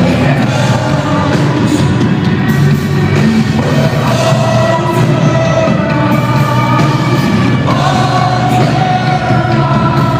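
A live rock band playing a worship song, with sung vocals held in long notes over steady, loud accompaniment.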